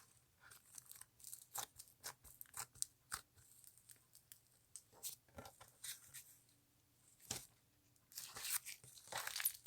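Clay-mixed slime being squeezed and poked by hand, giving scattered small clicks and crackles that grow into a denser crackling stretch near the end.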